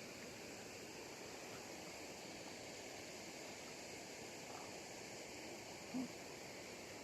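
Steady hiss of flowing stream water, with one brief low tone about six seconds in.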